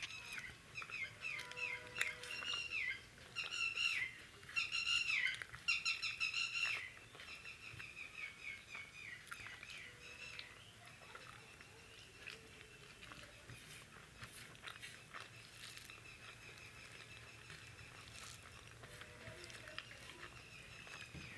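A bird calls in quick runs of chirping, pitch-bending notes for about the first seven seconds. After that come quieter eating sounds: chewing and soft clicks of fingers mixing rice on a paper plate.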